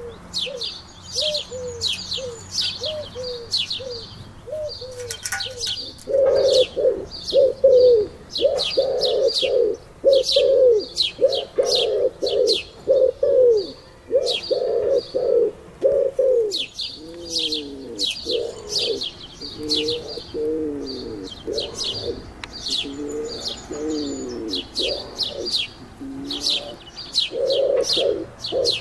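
Pigeons cooing in a long run of short arched notes, about two a second, getting louder about six seconds in, with small birds chirping in quick high notes over them.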